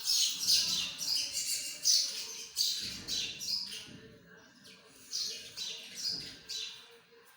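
Several birds chirping and squawking in quick, overlapping high-pitched calls, densest in the first three seconds or so; the calls thin out around four seconds in, pick up again for a couple of seconds, then fade near the end.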